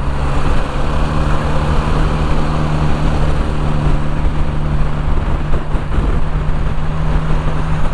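V8 car engine idling steadily alongside, a constant low burble with no revving.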